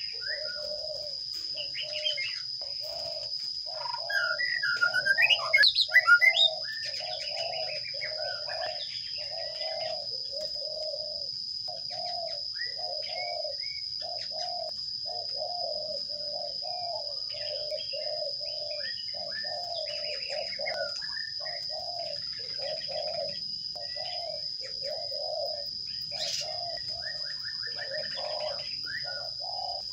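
Sparrows chirping at a nest box, with a loud burst of rapid chirping about four to six seconds in, over a continuous run of low pulsing calls about two a second. A steady high whine runs underneath.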